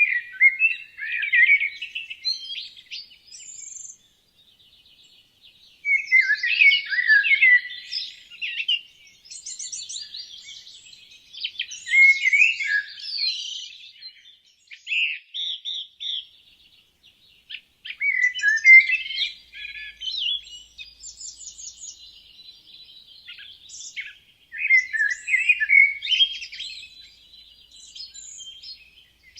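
Several songbirds singing and chirping in a forest chorus, in bouts of quick warbling phrases and high chirps with short pauses between them.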